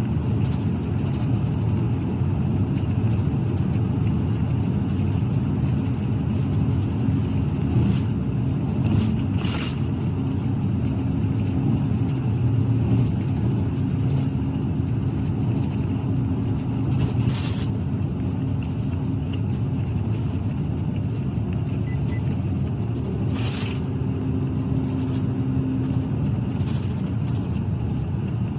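Steady engine and road noise heard inside a moving police car, a low even rumble, with a few short clicks or rattles along the way.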